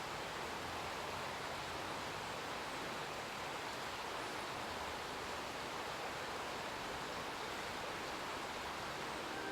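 Steady, even rushing noise with no bird calls or other distinct sounds in it.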